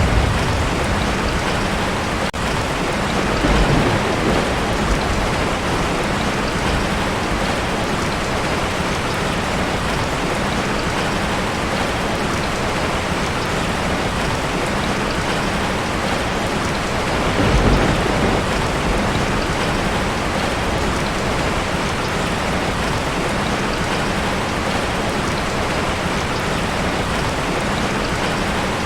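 Heavy rain drumming steadily on a tin roof, with two short low rumbles of thunder, about four seconds in and again past halfway.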